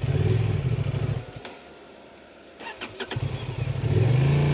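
Honda Transalp motorcycle engine running, then dying about a second in; after a short lull with a few sharp clicks it starts again about three seconds in and revs up.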